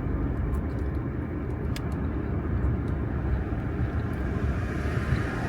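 Steady low rumble of a semi truck's engine heard from inside the cab.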